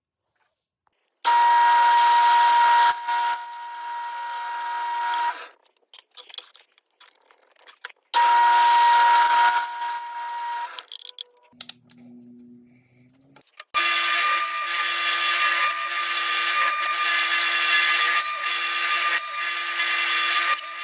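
A high-speed electric power tool in a wood shop, starting and stopping several times. It runs for about four seconds, stops, runs for a couple of seconds, then starts again about two thirds in and runs to the end.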